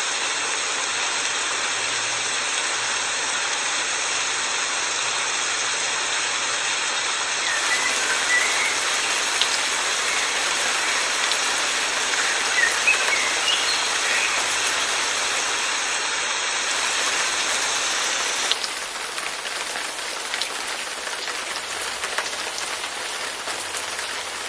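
Steady rain falling, an even hiss of drops on surfaces, with a few short chirps near the middle; the rain's sound changes slightly about three quarters of the way through.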